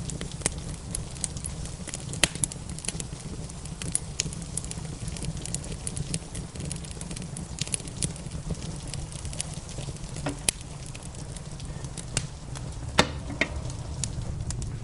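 Wood fire crackling in a fireplace with irregular sharp pops, a few of them louder, over a steady low rumble and the hiss of rain.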